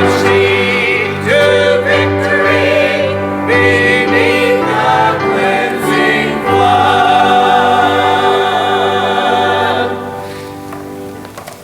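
Church choir singing a gospel hymn, ending on a long held chord that fades out near the end.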